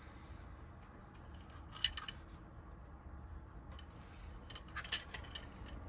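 Small metallic clicks and clinks of tumbler wafers being handled in a Honda door lock cylinder during rekeying: a short cluster about two seconds in and another just before the end.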